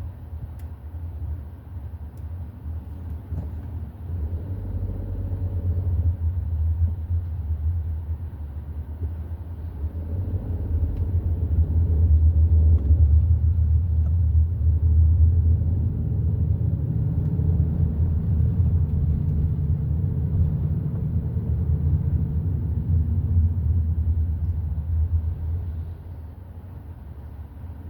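Hyundai i30 N Line driving, a low engine and road rumble. It builds from about four seconds in, is loudest around the middle, and drops away suddenly a couple of seconds before the end.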